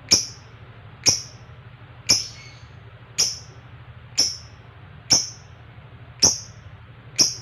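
Lovebird giving short, shrill single calls, one roughly every second in an even series.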